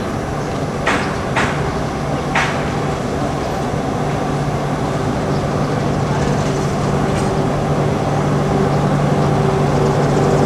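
Diesel locomotive engine running steadily with a low hum, with three sharp knocks in the first few seconds.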